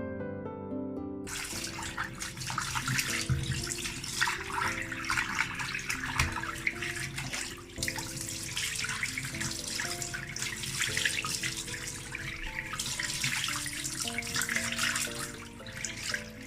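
Kitchen sink tap turned on about a second in, water running steadily into the sink basin, over soft instrumental background music.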